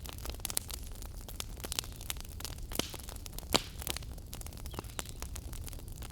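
Wood fire crackling: frequent sharp pops and snaps over a low, steady rumble of burning, with one louder pop about halfway through.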